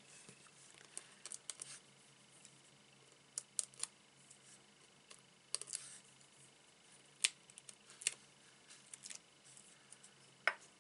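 Paper and craft tools being handled on a desk: scattered light clicks and taps, a few sharper and snip-like, with quiet gaps between them.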